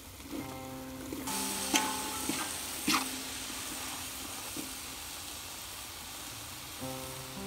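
Food frying with a steady sizzle that starts suddenly about a second in, with a few sharp clinks of stirring. Background music plays throughout.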